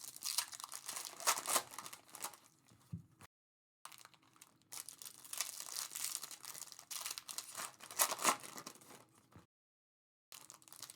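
Plastic packaging crinkling and tearing as trading-card packs and wrappers are handled, an irregular crackle with sharp ticks. The sound cuts out completely twice.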